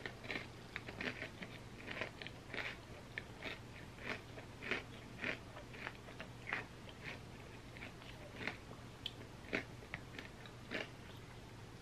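Close-up chewing and crunching of an ice cream sundae with cookie and chocolate pieces: short, irregular clicks and crunches, several a second, while a metal spoon works in the glass bowl.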